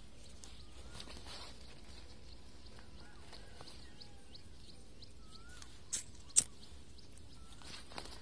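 Quiet outdoor background with a few faint, short, wavering bird whistles. Two sharp clicks about six seconds in, and a weaker one near the end.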